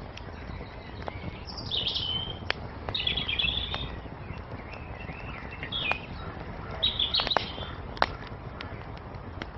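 Songbirds singing in short chirping phrases, four or five times, over a wood fire crackling with scattered sharp pops; the loudest pop comes about eight seconds in.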